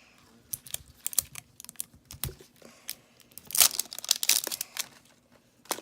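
Crinkling and tearing of a toy blind ball's wrapping being pulled open along its tear strip: scattered crackles and clicks, with a denser, louder burst of crinkling a little past halfway.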